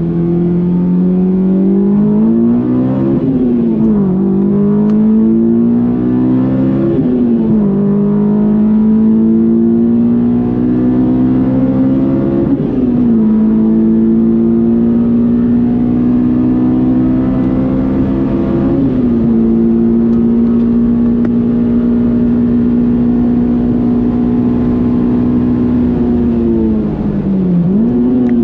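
Honda S2000's 2.2-litre F22 four-cylinder engine pulling hard up through the gears: the note climbs, drops sharply at four upshifts, then holds a steady, slowly rising pitch at speed. Near the end the revs dip briefly and come straight back.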